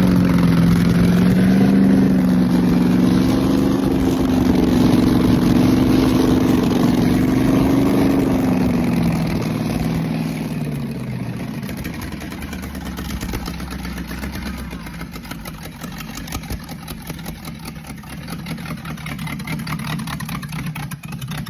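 Chevrolet Z11 big-block V8 running just after its first start, held at a fast, slightly wavering idle. About ten seconds in the revs drop and it settles to a lower, quieter idle with a rapid, even pulse.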